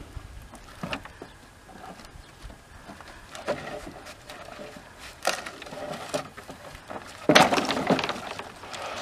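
Wooden boards knocking and clattering as they are thrown down and handled, with a few separate knocks and then a louder burst of clattering about seven seconds in.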